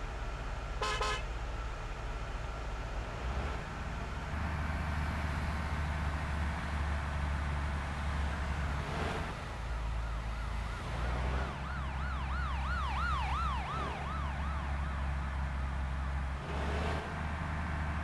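Truck engine running with a steady low hum. A short horn toot comes about a second in, and a siren wails up and down near the middle.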